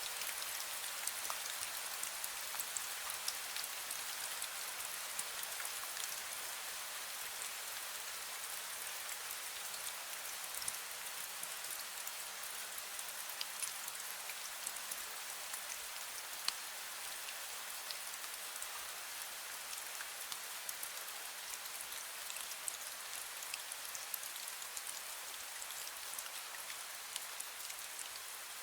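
Fine drizzle falling steadily: a soft, even hiss dotted with many small drip ticks.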